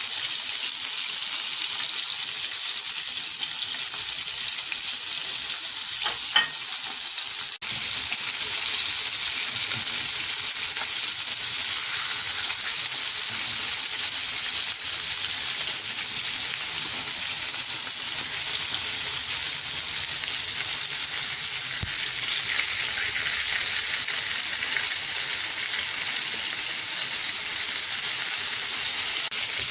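Coated chicken pieces deep-frying in hot oil with a steady sizzle. The heat has been turned down so the pieces cook through. A short knock comes about six seconds in.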